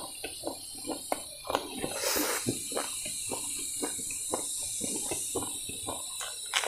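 A man chewing a mouthful of crispy, slightly burned rice (jola bhat) with chicken close to the microphone: many irregular short wet clicks and mouth smacks, with a brief noisier crunch about two seconds in.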